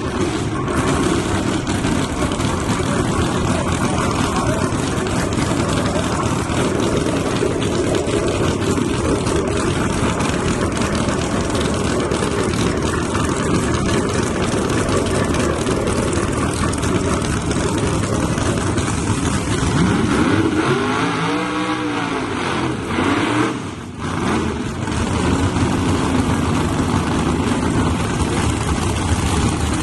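Loud, steady noise of drag-racing car engines. About twenty seconds in, one engine revs up and falls back over a couple of seconds.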